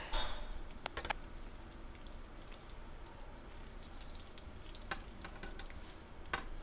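Sausages, fish balls and dumplings sizzling in hot oil in a frying pan, a steady fine crackle. A louder burst of sizzle with clicks comes right at the start as tongs move the food, and a few more sharp clicks follow about a second in, near five seconds and near the end.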